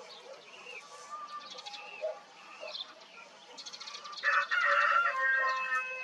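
Birds chirping: scattered short chirps and quick trills, then a loud, drawn-out call about four seconds in that lasts over a second.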